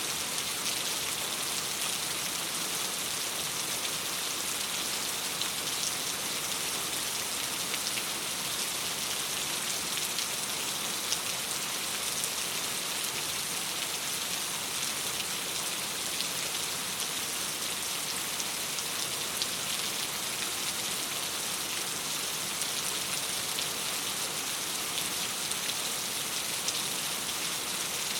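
Steady rain on a window: an even hiss with many small, sharp drop ticks scattered through it.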